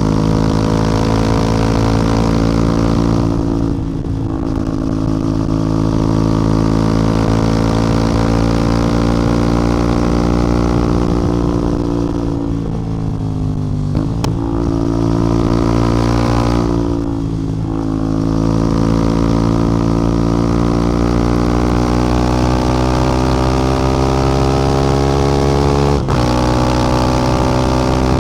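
CF Moto 450MT's parallel-twin engine and exhaust under way. The engine note pulls steadily, sinks as the throttle is rolled off about four seconds in, around twelve seconds and again around seventeen seconds, and climbs back each time. There is a short sharp break near the end.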